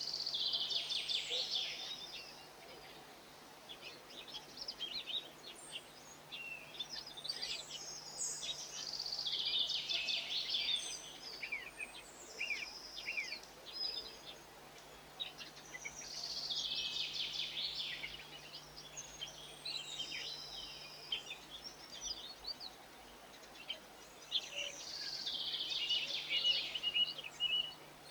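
A songbird singing short bursts of quick, high twittering notes, each phrase two to three seconds long and repeated about every eight seconds.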